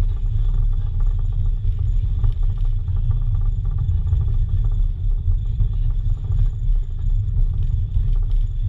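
Steady low rumble of a steam-hauled passenger train rolling along the track, heard from aboard the train.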